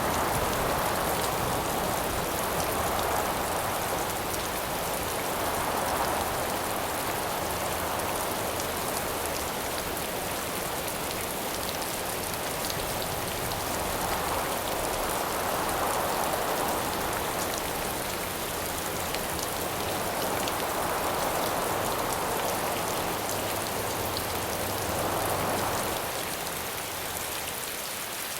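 Steady rain falling, with howling wind that swells and fades every few seconds.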